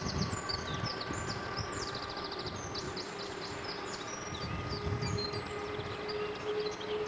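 A distant electric train approaching along the line, heard as a faint steady hum that grows stronger from about halfway in, with low rumbling. Birds sing throughout.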